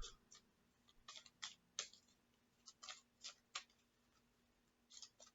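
Faint, irregular clicks and taps of tarot cards being handled and shuffled, with a pause of about a second shortly before the end.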